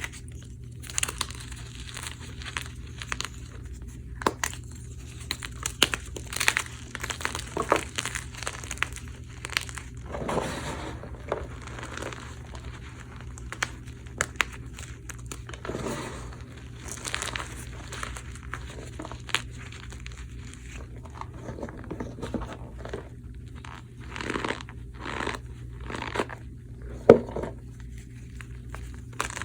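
Blocks of gym chalk topped with cornstarch being crushed: irregular crunches and powdery crumbling, with one sharper, louder snap near the end.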